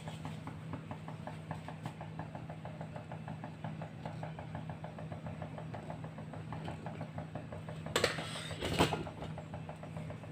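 Kitchen stove with oil heating in a cooking pot: a steady low hum with faint, even ticking, about four or five ticks a second. Two short clattering sounds come about eight seconds in.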